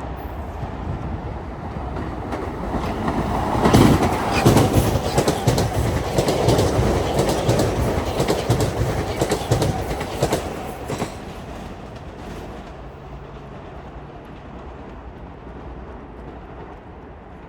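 A Metro-North commuter train passing through the station: its rumble builds, peaks with a quick run of wheel clicks over the rail joints, then fades away.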